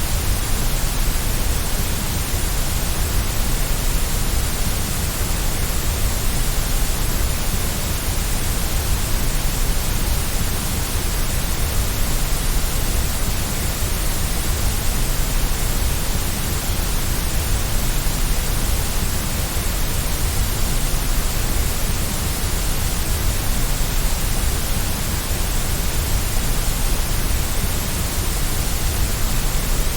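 Steady, unchanging white noise: an even hiss with a low rumble underneath.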